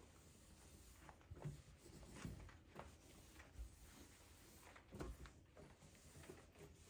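Near silence: room tone with faint, scattered light clicks and soft knocks.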